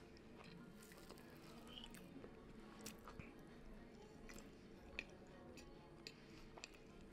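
Faint close-up chewing and crunching, with scattered small clicks over a low hum.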